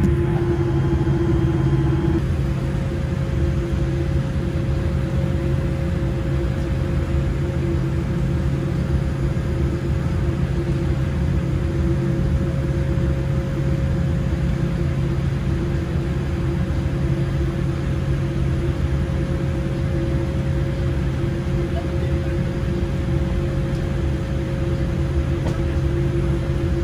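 Steady cabin noise inside a Boeing 787-8 airliner: a constant engine and airflow rumble with a few steady hums. Two higher hum tones stop about two seconds in and another steady tone takes over.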